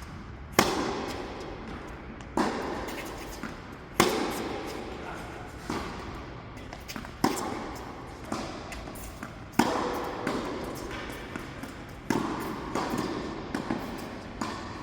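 Tennis balls struck with rackets in a training rally: sharp hits about every one and a half to two seconds, each echoing briefly.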